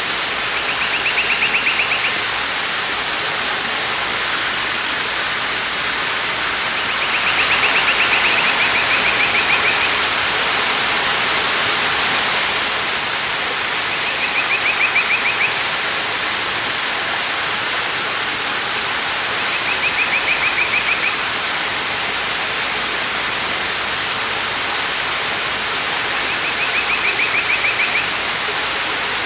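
Waterfall rushing steadily. A high, fast-pulsed trill rises over it five times, about every six to seven seconds.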